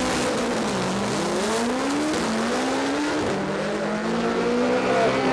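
Drag-race cars launching down the strip, a Vauxhall and a Honda Civic side by side: the engines rev and climb in pitch in steps as they change gear, then hold a steady note about three seconds in.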